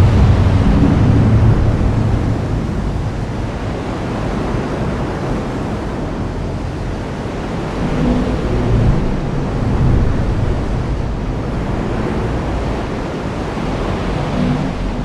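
Heavy rain falling steadily, a dense even hiss, with low rumbling swells near the start and again about eight seconds in.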